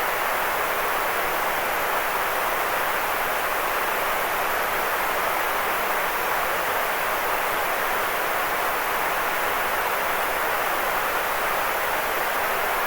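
Steady, unchanging electronically generated white noise: an even hiss, fullest in the middle and upper-middle range, with little bass.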